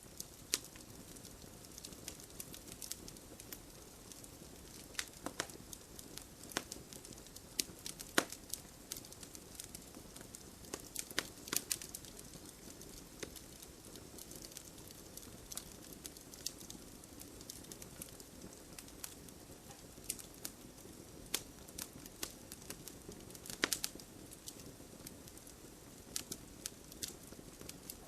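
Wood campfire crackling: a steady soft hiss of burning with irregular sharp snaps and pops, a few of them louder.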